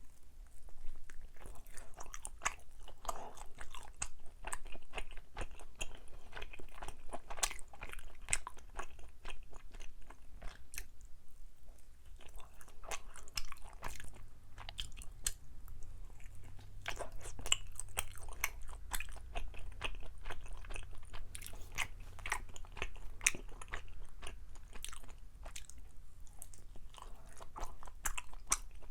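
Close-miked chewing of chewy Korean rice cakes: irregular sticky, wet mouth clicks and smacks.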